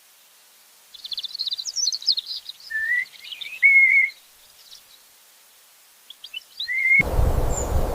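A songbird singing: a phrase of rapid high chirps and short clear whistles about a second in, and a shorter phrase near six seconds. A steady rushing noise starts near the end.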